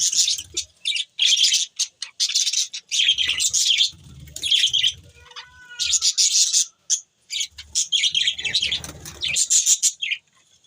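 Budgerigars chirping and chattering in quick bursts of high-pitched calls with short pauses between them.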